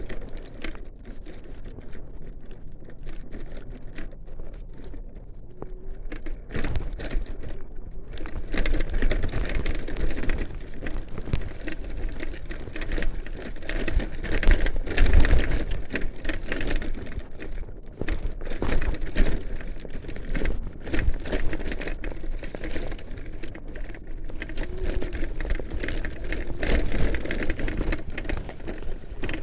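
Kugoo Max Speed electric scooter ridden on tubeless tyres over a forest track: dense, irregular crackling and clicking from the tyres and frame on rough ground, with low rumbling gusts. It grows louder about eight seconds in.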